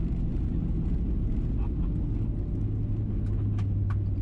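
Steady low rumble inside the cabin of a Boeing 737-700 during landing. A low steady hum comes in about halfway through, and there are a few faint clicks near the end.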